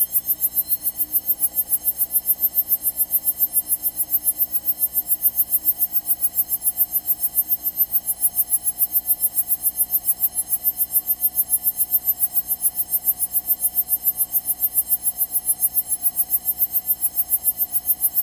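Cockpit audio of a Cessna 172 taken from the intercom: a steady electrical buzz that pulses rapidly and evenly, over a faint engine hum, with a whine that rises in pitch and levels off about a second in.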